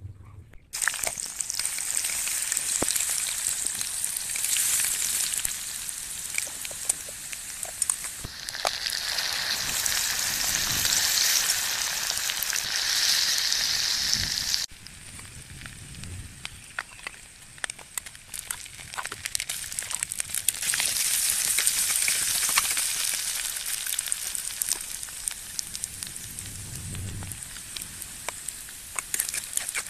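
Sliced onions and red chillies frying in hot oil in a wok, a loud sizzle that starts suddenly about a second in as the food goes in. A metal spatula scrapes and clicks against the pan throughout. The sizzle drops about halfway through, then builds again.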